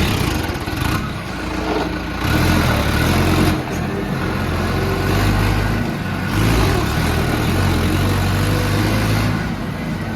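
Mahindra Arjun 555 tractor's four-cylinder diesel engine running, its revs stepping up and down a few times.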